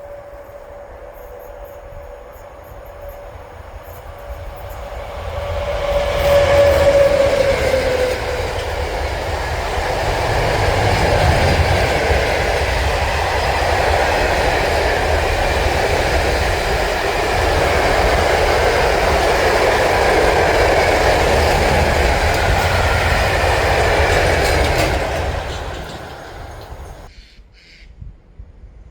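A train passing at speed: a steady tone dips slightly in pitch as it goes by, then about twenty seconds of loud wheel-and-rail rushing with some clatter, which fades before cutting off near the end.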